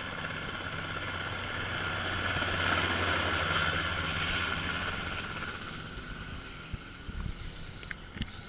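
Enstrom F-28 helicopter's piston engine and rotor running, growing louder to a peak about three seconds in and then fading away. A few short knocks sound near the end.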